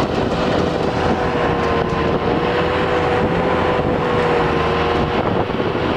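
Skid steer engine running steadily under heavy load with a steady whine, straining to pull a fallen tree; the operator is short of traction.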